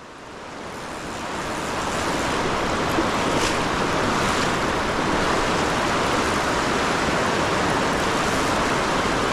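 Steady rushing of river rapids, fading in over the first couple of seconds and then holding even.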